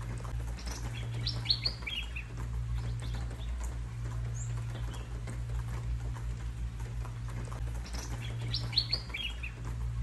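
A songbird's quick burst of high chirps, the same phrase twice, about a second in and again near the end, with faint single chirps between. Under it, a steady low rumble and fine pattering, as of rain.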